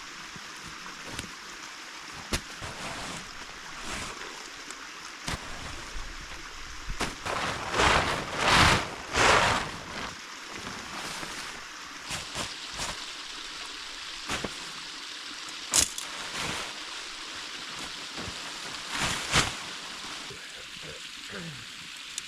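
A creek flowing steadily, with several louder rustling surges about a third of the way in and a couple of sharp clicks later on.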